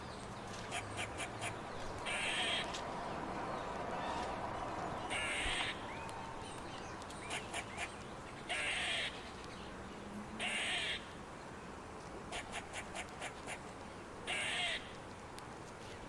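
Crow cawing: single harsh caws every few seconds, with short runs of quick clicks in between.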